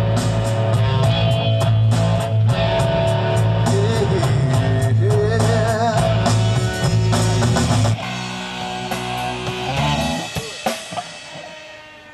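Live band playing a song with guitar and drums, then the full band stops about eight seconds in, leaving ringing chords and last hits that die away.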